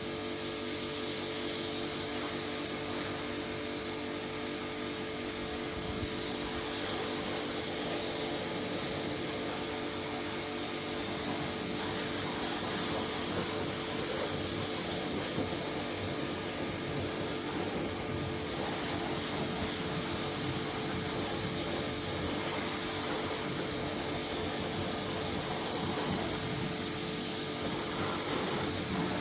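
Pressure washer running steadily: a motor hum with the hiss of the water spray.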